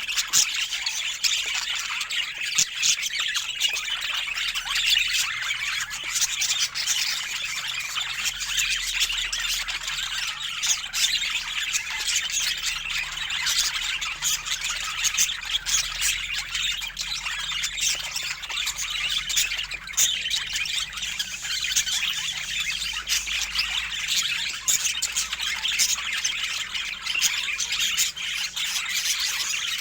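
Budgerigars chattering and squawking continuously, a dense stream of high chirps and short sharp squawks.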